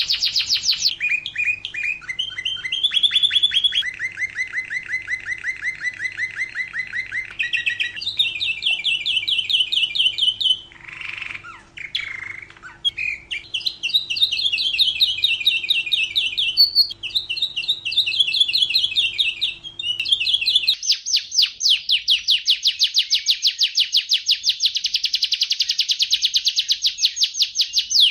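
Domestic canary singing a long, continuous song of fast trills, each a rapid run of the same note repeated, jumping to a new pitch every few seconds. A faint steady hum under the song stops abruptly about two-thirds of the way through.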